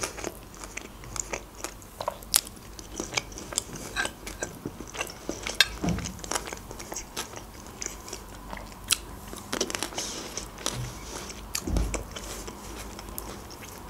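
Close-miked chewing of a raw shredded vegetable salad: a dense, irregular run of sharp crunches and mouth clicks.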